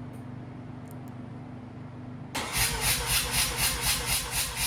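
Mazda FD RX-7's 13B twin-rotor engine cranked on the starter at wide-open throttle for a compression test of the rear rotor, beating in an even pulse about four times a second. The cranking starts about two seconds in, after a low steady hum.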